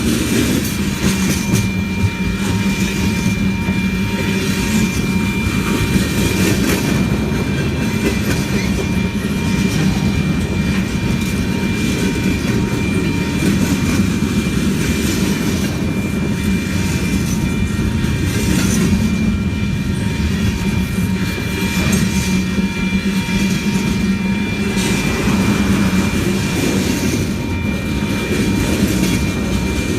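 Railroad train rolling steadily past, its cars clicking over the rail joints with a constant low rumble.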